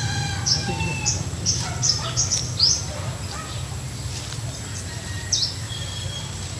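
Small birds chirping: short, high, downward-sliding chirps, a quick run of them in the first three seconds and a couple more near the end, over a steady low rumble.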